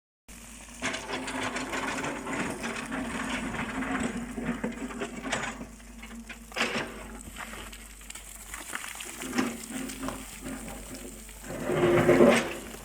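Excavator engine running with a steady low hum, mixed with repeated metallic clanks and knocks. A louder, pitched burst comes near the end.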